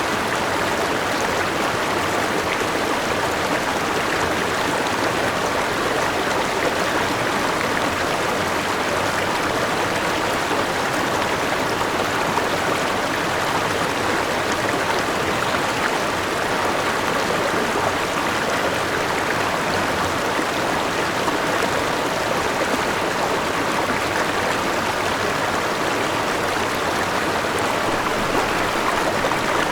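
Forest river flowing over rocks, a steady rushing and splashing of water.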